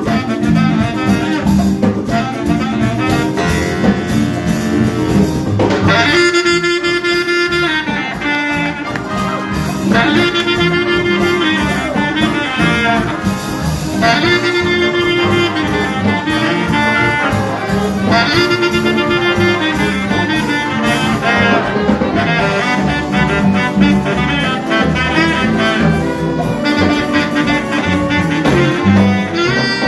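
High school jazz big band playing live, with saxophones and brass over a drum kit. From about six seconds in, the horns play a repeated phrase of long held chords that comes round roughly every four seconds.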